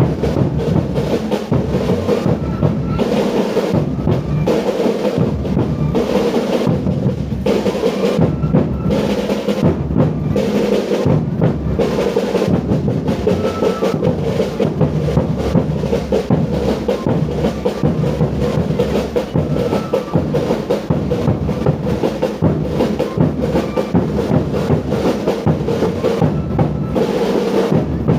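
Drum-led music: a bass drum and snare drum keep up a steady, busy rhythm without a break.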